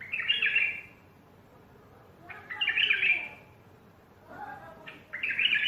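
Bulbul singing: three short, rich warbling phrases about two and a half seconds apart.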